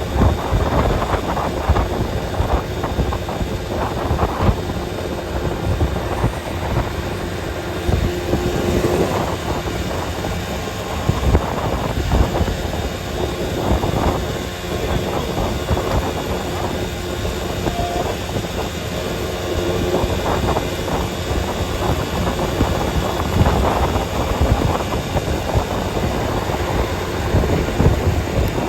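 A vehicle driving along a road: steady engine and road rumble with many small, uneven knocks.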